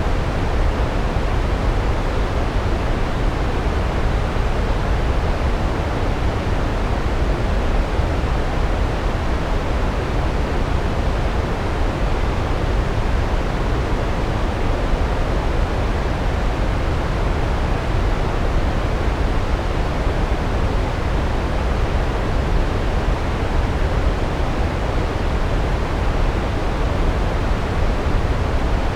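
Large waterfall pouring steadily, a constant deep rush of water with most of its weight in the low end.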